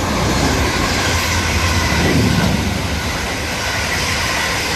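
Third-rail electric multiple-unit train running past on the line: a loud, steady rumble of wheels on rails with a faint, even whine over it, swelling a little about two seconds in.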